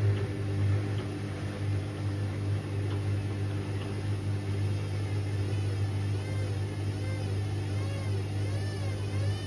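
Indesit IWC6165 washing machine running with a steady low hum. From about five seconds in, a whine wavers evenly up and down, a bit more than once a second.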